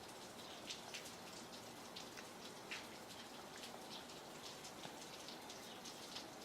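Rain falling: a faint steady hiss with many separate drops ticking irregularly on a surface.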